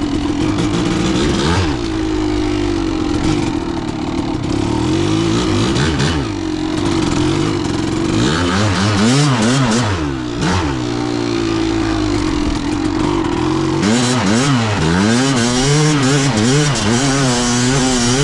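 Kawasaki KDX200's two-stroke single-cylinder engine running under way. It holds a steady pitch at first, then revs up and down about eight seconds in, steadies again, and revs up and down repeatedly near the end as the throttle is worked.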